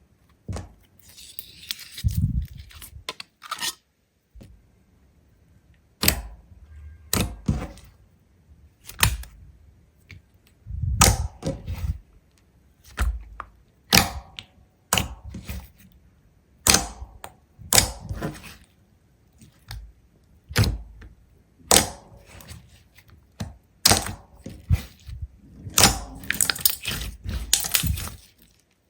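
A series of sharp knocks, cracks and thunks, irregular, about one or two a second, with a quick cluster of them near the end.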